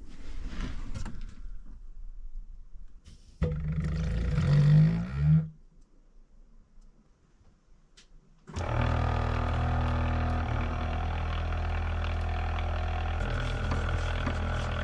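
Electric power tool run up briefly with a rising whine and stopped. After a pause it is started again and runs steadily.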